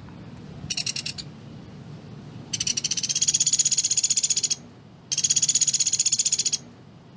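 Pelatuk beras (velvet-fronted nuthatch) giving rapid, dry, machine-gun trills, the 'tembakan' song: a short burst about a second in, then two long trills of about two seconds and a second and a half.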